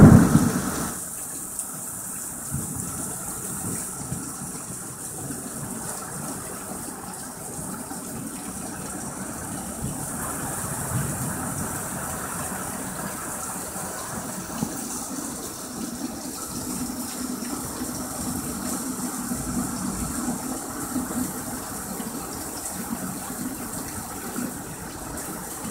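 Heavy thunderstorm downpour: a steady, even rush of rain pouring onto roofs and the yard. It opens with a loud burst that dies away within about a second.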